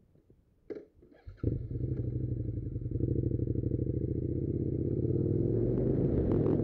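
Suzuki SV650's V-twin engine starting after a couple of clicks about a second and a half in, then running with a steady pulse and growing louder as the motorcycle pulls away.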